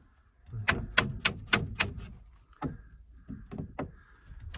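A run of sharp knocks, five in quick succession about a second in, then a few more spaced out, as a part is pushed and tapped into place.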